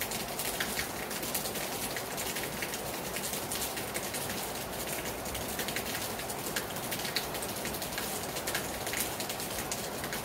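Heavy rain falling hard on a terrace: a steady hiss dense with the sharp ticks of individual drops striking close by.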